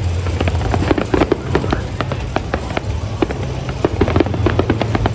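Fireworks going off in quick, irregular succession: many sharp bangs and crackles, several a second, over a steady low rumble.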